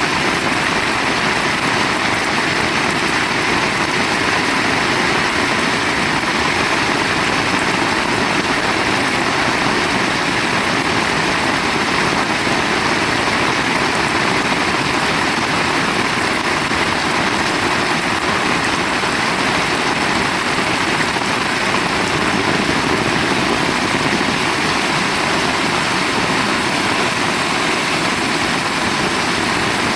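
Heavy rain falling, a dense, steady hiss with no breaks.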